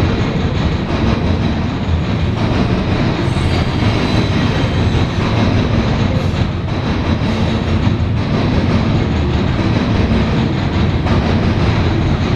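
CSX freight train cars rolling steadily past close by: a continuous rumble with the rapid clatter of wheels over the rails and a faint thin wheel squeal.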